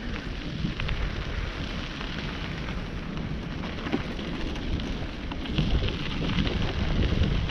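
Wind buffeting the microphone and tyre noise from a moving bicycle, a steady low rumble with scattered small crackles and rattles, a little louder near the end.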